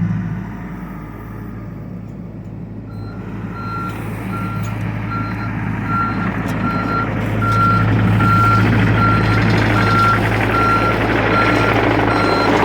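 John Deere excavator's diesel engine running, with its travel alarm beeping steadily from about three seconds in, a little under two beeps a second. The engine grows louder about halfway through.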